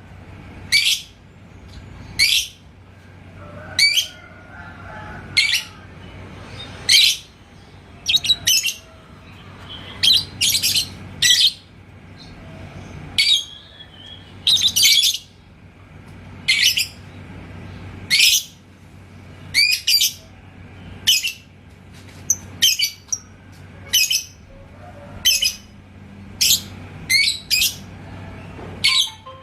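Lovebird calling in short, shrill chirps, one every second or two, some doubled or in quick runs of three, over a faint steady low hum.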